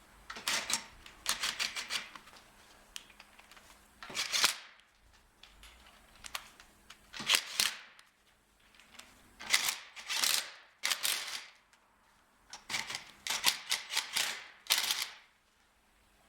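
Wheel-bolt work with hand tools: bursts of rapid clicking, like a ratchet wrench, in clusters a second or two long with short pauses between.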